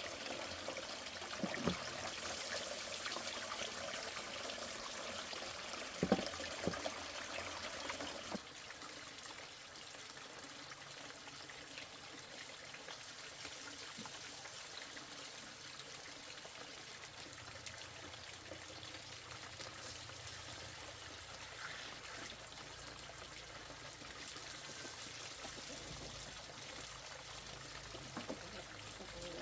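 Water pouring and trickling steadily, with a couple of light knocks; it drops to a quieter trickle about eight seconds in.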